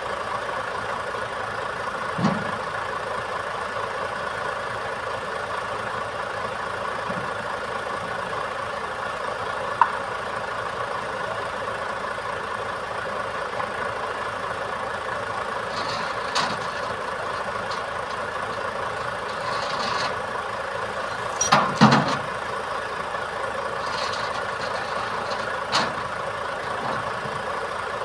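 Iveco Trakker 380 boom truck's engine running steadily, with a few sharp clanks spread through, the loudest a double clank about two-thirds of the way in, and a few short hisses.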